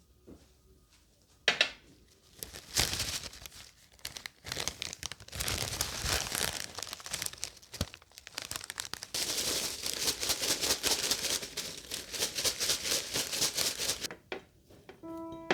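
Dried flower petals and leaves crinkling and crackling as they are crumbled by hand, in a run of quick, dense crackles, with a sharp click about a second and a half in.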